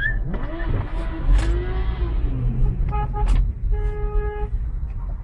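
Car road noise, a steady low rumble, with a couple of sharp knocks and a car horn sounded twice past the middle, a short blast then a longer one.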